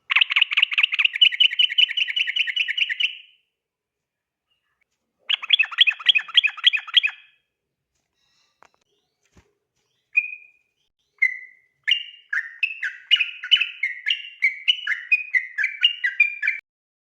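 A yellow-vented bulbul (trucukan) calling: two rapid rattling trills, the 'ropel' call, then two short single notes and a run of quick notes that step up and down in pitch.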